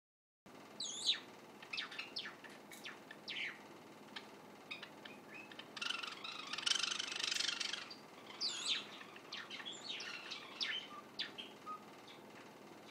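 Young white Java sparrow practising its song: a halting run of short chirps and thin sweeping notes, with a denser, scratchy passage about six seconds in. The song is still unformed, a juvenile's practice song.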